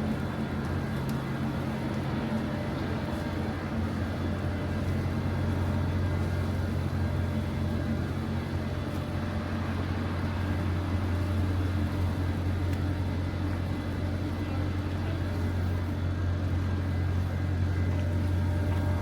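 Steady low rumble of city street traffic, with vehicle engines running throughout.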